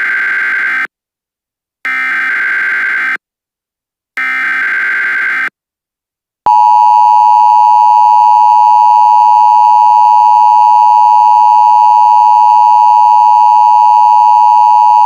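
Emergency Alert System tones: short bursts of SAME header data tones, each about a second long, three in all, then the loud, steady two-tone EAS attention signal starting about six and a half seconds in.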